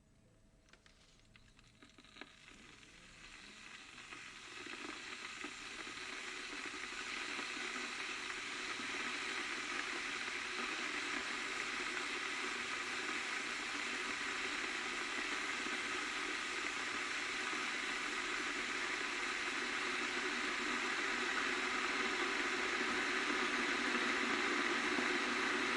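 Kettle heating water toward the boil: a few faint ticks at first, then a rushing hiss that swells over the first several seconds and holds steady, growing slightly louder near the end.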